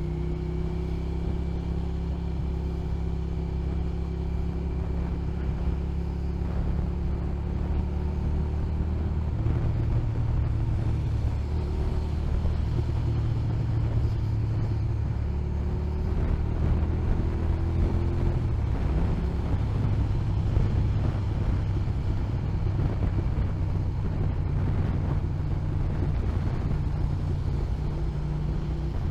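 Motorcycle engine running under way, with wind and road noise. Its note holds steady, drops about nine seconds in, and changes again near nineteen seconds, as the engine speed changes.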